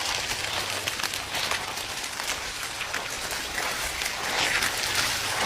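A steady, dense patter of tiny clicks, rain-like, getting a little louder near the end.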